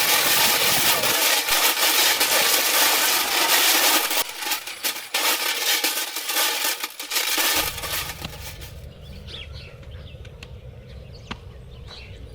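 Cheke bird scarers: empty cans filled with stones, strung on ropes between sticks across a rice field, shaken so they rattle and clatter to drive birds off. The dense rattle thins out after about four seconds and dies away.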